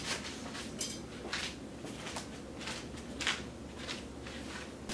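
Scattered rustling and light scraping of things being handled and moved about, a short scuff every half second or so.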